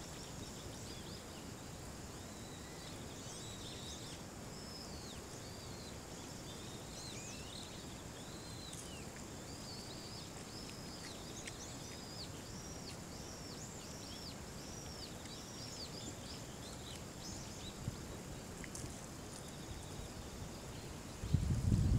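Small birds chirping, many short high rising-and-falling calls repeated one after another, over a faint steady high whine. Near the end a sudden burst of low rustling cuts in, louder than the rest.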